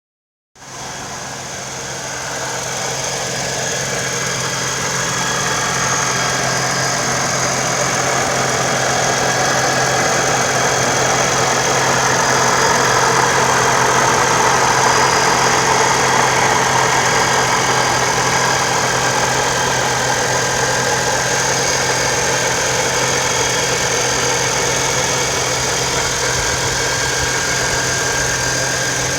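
Toyota 4.0L V6 fitted with a TRD supercharger idling warm, at operating temperature: a steady idle with thin, high-pitched tones running over it, the supercharger noise the owner is recording. It starts about half a second in.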